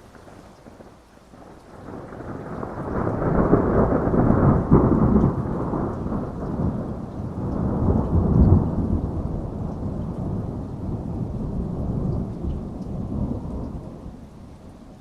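A long rolling peal of thunder over steady rain: the rumble builds from about two seconds in, swells twice, then dies away near the end.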